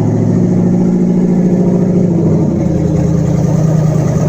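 Chevrolet Tahoe V8 engine fitted as a boat's inboard motor, running steadily on its first run after a rebuild; its pitch drops slightly about two seconds in.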